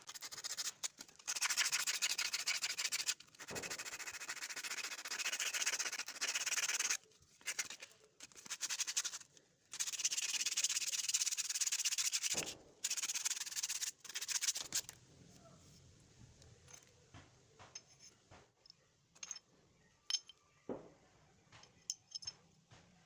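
Emery paper rubbed back and forth over a motorcycle drum brake shoe's lining, sanding off the layer of dust that causes brake noise. The scraping comes in several long bursts over the first fifteen seconds, followed by a few light clicks and taps.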